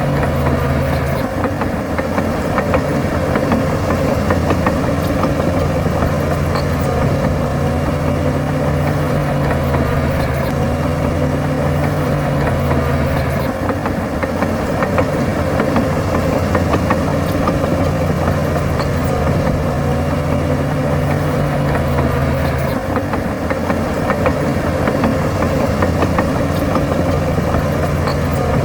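Bulldozer's diesel engine running steadily, its low note shifting a few times (about a second in, midway, and near the end) as the load changes.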